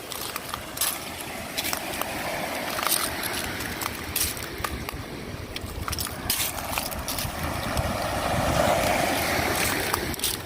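Small waves washing in over the shoreline, the wash swelling twice, with scattered short sharp clicks over it.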